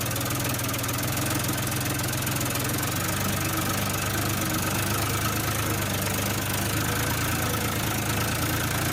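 Mini tractor's engine running steadily with a fast, even diesel-like knocking chug.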